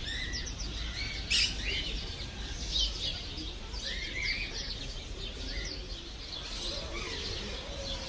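Several small birds chirping and twittering, short overlapping calls with no pause, two of them louder in the first three seconds.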